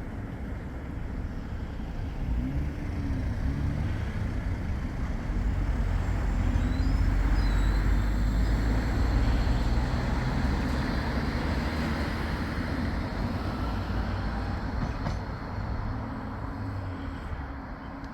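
A Bombardier Flexity 2 light-rail tram passing: a low rumble that builds to its loudest around the middle and then fades away.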